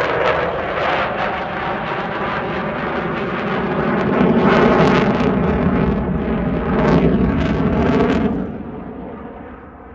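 F-16 fighter jet engine noise as the jet makes a display pass: a loud, crackling jet roar that swells twice, then fades off about eight and a half seconds in as the jet moves away.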